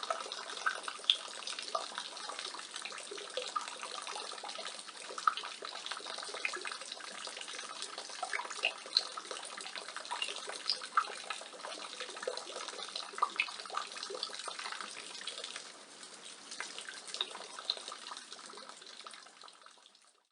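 Rainwater falling from a roof gutter, a steady splashing with many separate drops and spatters on top. It eases a little in the later part and fades out at the end.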